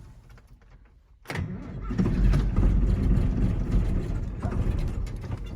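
John Deere 8640 tractor's diesel engine cold-starting with no ether and no block heater: it catches suddenly a little over a second in and keeps running with a steady, loud low rumble, heard from inside the cab.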